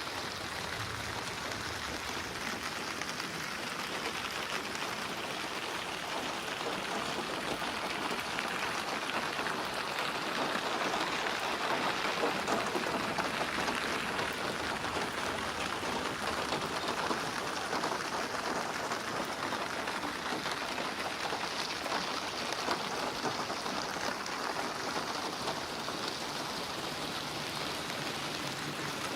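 Steady rain falling, an even patter of drops on surfaces, swelling a little in the middle.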